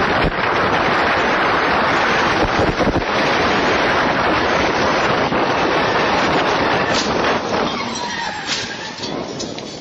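Loud, steady rushing noise like wind buffeting a microphone on a fast-moving vehicle, fading away over the last two seconds.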